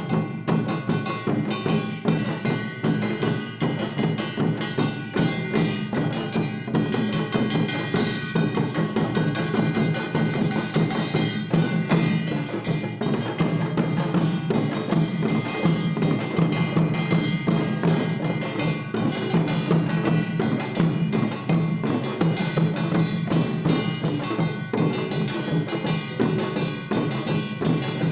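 Traditional Korean percussion ensemble (samul nori) of janggu hourglass drum, buk barrel drum, jing gong and kkwaenggwari small gong, playing a dense, fast, continuous drumming rhythm with ringing metal tones above it.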